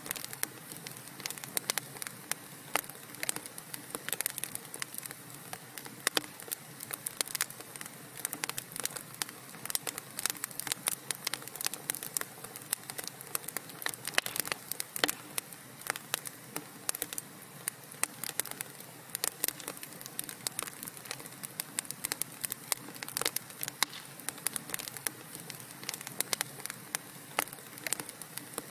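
Wood fire crackling in a fireplace: a dense, irregular stream of sharp pops and snaps over a steady low hiss of burning.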